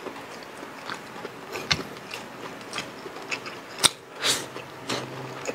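Close-miked chewing and lip-smacking of people eating stir-fried pork and rice by hand: irregular small wet clicks, with a sharper click and a short breathy hiss about four seconds in.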